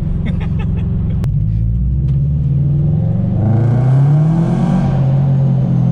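Supercharged Subaru BRZ's flat-four engine and exhaust heard from inside the cabin under acceleration, the engine note rising through the middle and loudest about four seconds in.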